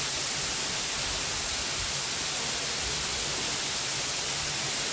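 Waterfall cascade: rushing water making a steady, even hiss.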